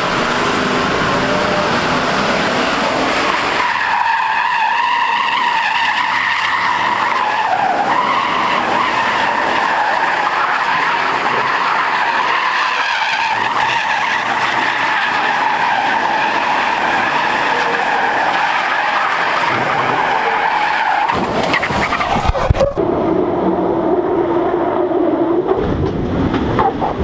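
Car tyres squealing as the car drifts: a long, steady, wavering screech that breaks off about twenty-one seconds in.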